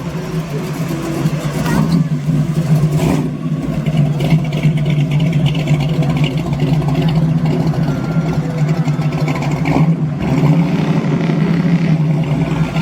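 Modified car's engine idling with a steady low drone.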